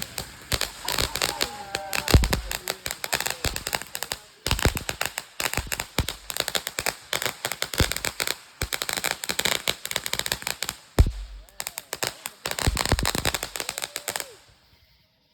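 Consumer fireworks going off in a rapid, dense crackle of pops, with brief pauses and a couple of heavier bangs. The crackling stops abruptly just before the end.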